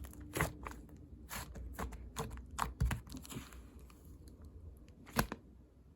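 Very watery slime handled by hand, giving off irregular sticky pops and clicks, a cluster in the first three seconds and one loud pop about five seconds in.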